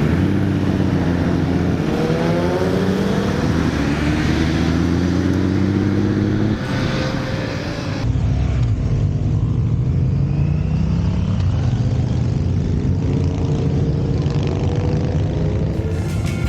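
Motorcycle engines running, one accelerating with its pitch rising over the first few seconds before holding steady. The sound changes abruptly about eight seconds in.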